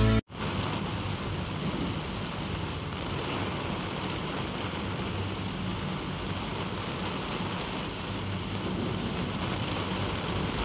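Heavy rain beating on a moving car, heard from inside the cabin: a steady hiss of rain and road spray over a low rumble of tyres on the wet road.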